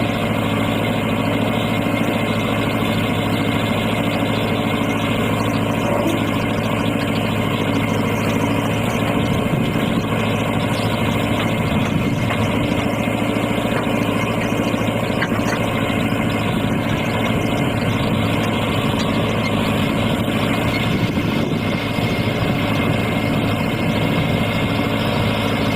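Heavy vehicle engine running at a steady speed, an even low drone with no revving.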